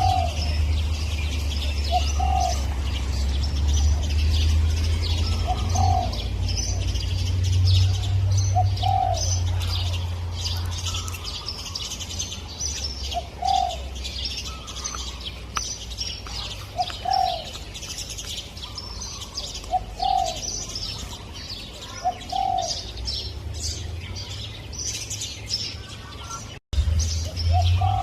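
Spotted dove cooing, short low coos repeated every couple of seconds, over the constant high twittering of small birds and a low rumble. The sound cuts out for an instant near the end.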